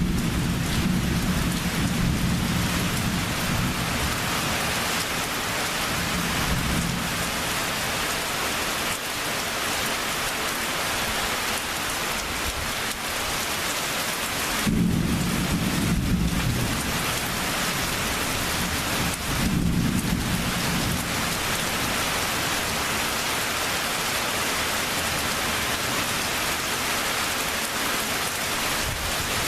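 Steady heavy rain with rolls of thunder: a long low rumble at the start that fades out over several seconds, then two more rumbles about halfway through, the second starting with a sharper crack.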